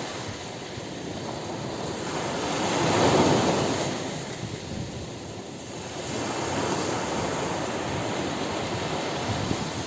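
Ocean surf on a beach: a wave swells and breaks about three seconds in, then washes back before the next surge builds near six seconds.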